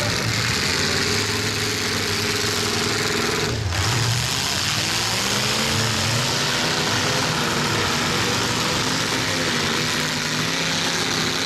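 Several demolition-derby cars' engines running and revving together, their pitches rising and falling as the cars accelerate and back up.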